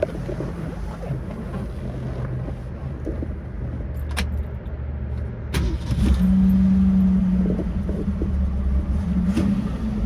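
Ford 260 V8 idling with a steady low rumble, two sharp clicks partway through, and a steady hum joining about six seconds in.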